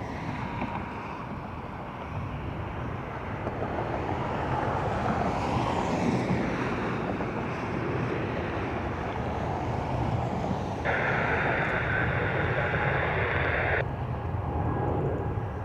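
Jet airliner engines running with a steady rush that builds slowly, with wind on the microphone. A burst of airband radio hiss lasts about three seconds near eleven seconds in.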